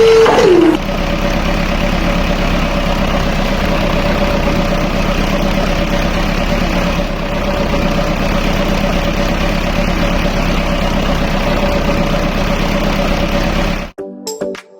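An engine running steadily at idle, with a constant hum. It is preceded by a held tone that slides down in pitch and stops under a second in. The engine cuts off suddenly near the end.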